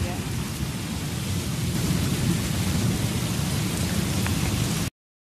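Heavy rain falling steadily on open ground, a constant hiss over a deep low rumble. It cuts off suddenly near the end.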